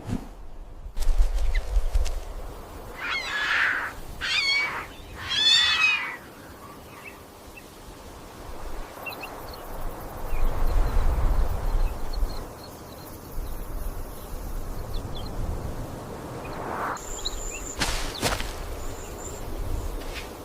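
Three short, wavering animal calls in a row, over a low rumble.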